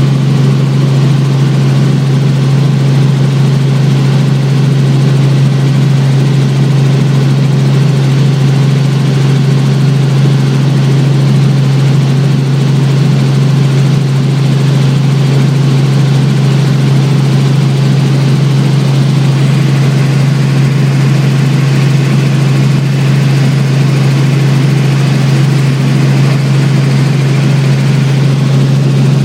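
Helicopter in flight: a loud, steady drone of engine and rotor with one strong low hum that does not change.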